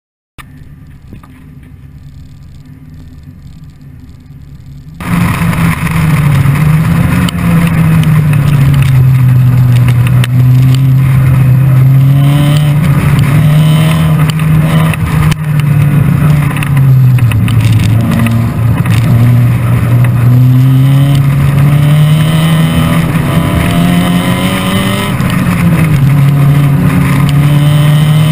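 Supercharged Mev Exocet's engine running hard on track, its note rising and falling as it accelerates, shifts and brakes, heard with road and wind noise. After a quieter start, it comes in loud about five seconds in.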